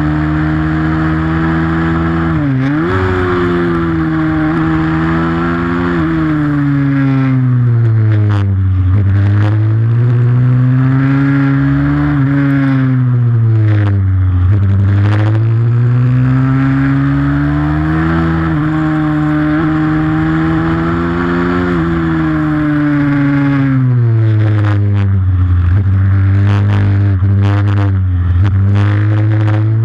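Pit bike engine revving under racing load, its pitch climbing as it accelerates and dropping again as it slows, over and over, with a quick dip and recovery about two and a half seconds in.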